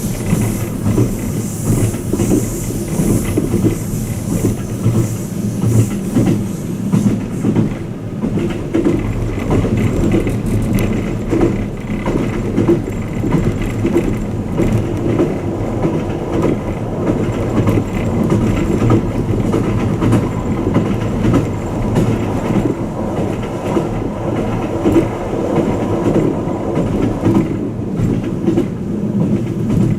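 Inside the passenger cabin of the Twilight Express Mizukaze, a Kiha 87 series diesel-electric train, running at speed: a steady rumble of wheels on rail with many small irregular knocks, and a high hiss that fades away in the first several seconds.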